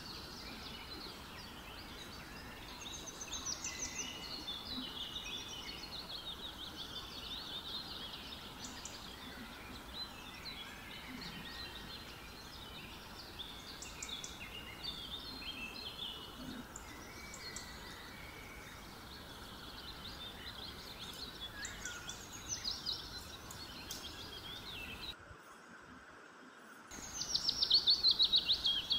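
Small birds chirping and calling in the background, many short high calls over a steady hiss, with a louder, fast run of calls near the end.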